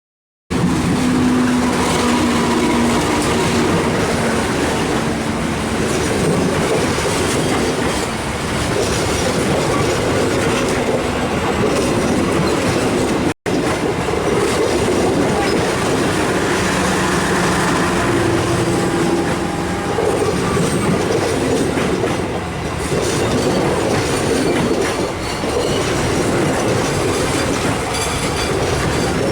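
A train running on the track, its wheels clattering over the rail joints. The sound drops out for an instant about 13 seconds in and then carries on.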